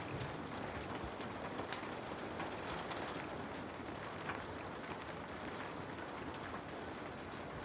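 Steady rain falling, a constant hiss with the patter of individual drops landing on a surface.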